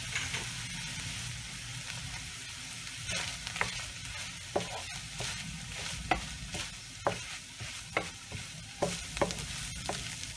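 Diced ham, bacon and onion sizzling in a frying pan while a wooden spoon stirs them. From about three seconds in, the spoon scrapes and knocks against the pan every second or so.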